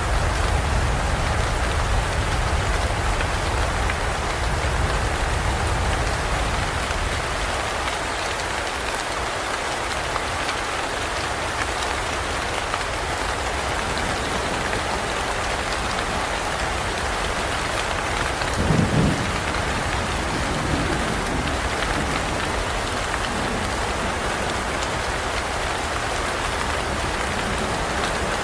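Steady rain falling, with the low rumble of thunder dying away over the first several seconds. A short low thump sounds about two-thirds of the way through.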